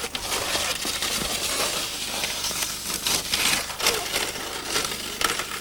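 Snow crunching and scraping: a run of short, crisp crunches under a steady rough hiss, with faint children's voices now and then.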